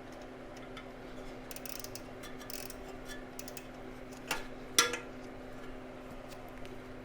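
Light metallic clicking of a hand ratcheting wrench tightening the fan bolts onto the water-pump pulley, with two louder metal clinks about four and a half seconds in. A steady low hum runs underneath.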